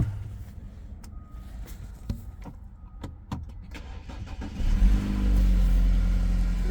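BMW TwinPower Turbo engine being started: a few sharp clicks, then about four and a half seconds in it catches with a loud surge and settles into a steady idle.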